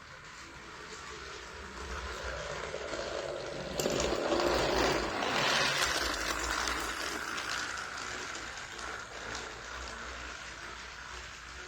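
Motorized toy train engine whirring as it runs along the track. It grows louder and rougher about four seconds in, as it comes close, then eases off.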